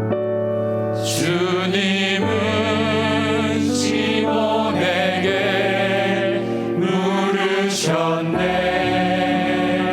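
Slow worship band music: sustained keyboard chords under a wavering, vibrato melody, with cymbal swells about a second in, around four seconds and again near eight seconds.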